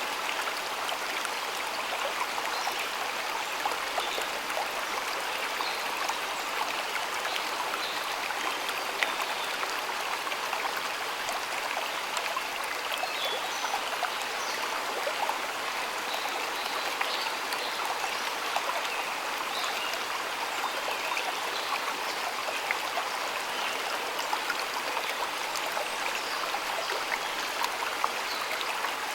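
A stream of water flowing and splashing steadily, with many small splashes and trickles.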